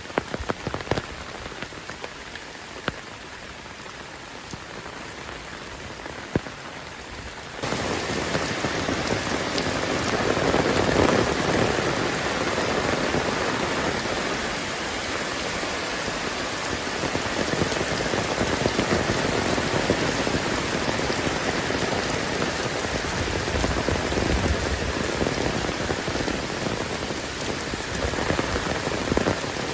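Heavy rain falling steadily, with individual drops hitting close by. About eight seconds in, the rain abruptly becomes much louder and denser and stays that way.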